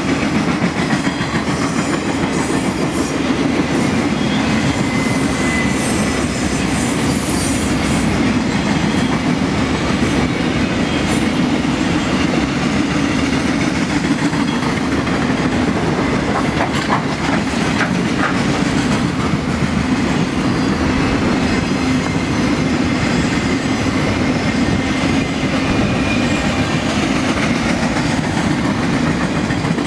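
Freight train's loaded flatcars rolling past close by: a steady rumble of steel wheels on the rails, with wheels clacking over rail joints.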